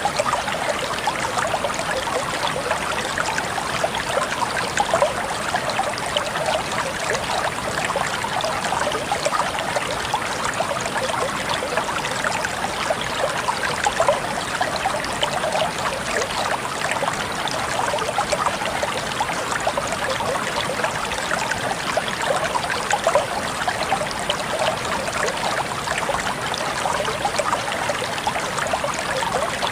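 Water flowing steadily in a stream, a continuous splashing and trickling babble.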